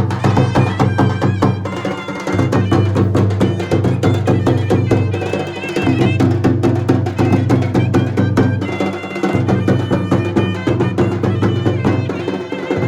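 Fast traditional Indian dhol and nagara drumming, dense rapid strokes over a steady low drone that breaks and restarts about every three and a half seconds, with a wavering high melody line above.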